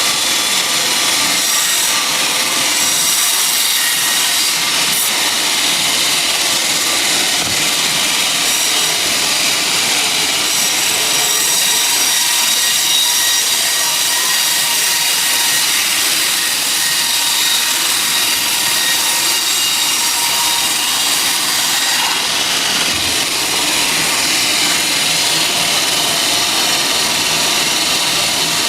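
A sawmill saw cutting through a teak log, a steady, unbroken, high-pitched hiss with a faint whine running through it.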